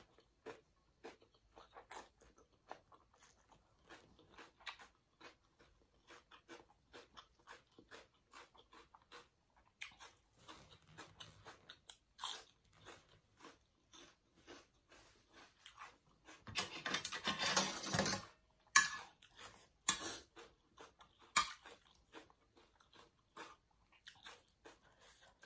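Close-up chewing and crunching of a glass noodle salad with raw red onion and vegetables: many small crunches and wet mouth clicks. A louder, denser noisy stretch lasts about a second and a half, about two-thirds of the way in.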